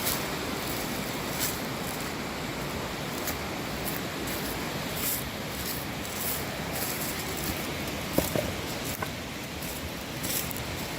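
Steady outdoor rushing noise with faint scattered clicks, and one sharp tick about eight seconds in.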